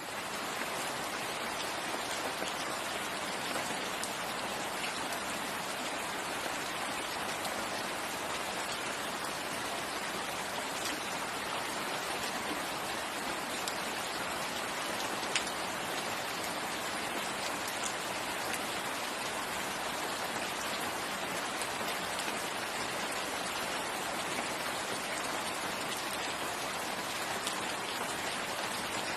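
Steady rain falling in a forest: an even hiss of rain with scattered individual drop ticks, and one sharper drop about halfway through.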